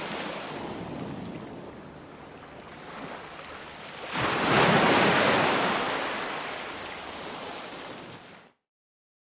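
Ocean waves washing in, with one wave surging loudly about four seconds in and slowly fading. Near the end the sound cuts off abruptly into silence.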